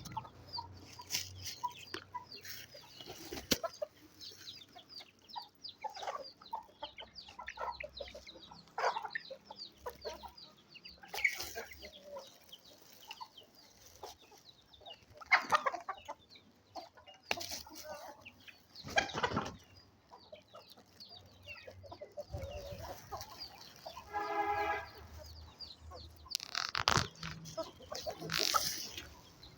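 Aseel chickens clucking and calling while they feed, with scattered sharp clicks and one longer pitched call near the end.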